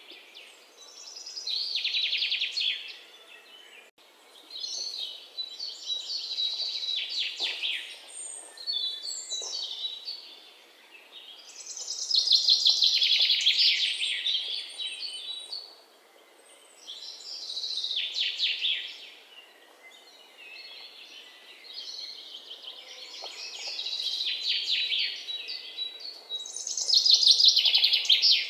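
Birds chirping and trilling in high, rapid bursts that swell and fade every few seconds.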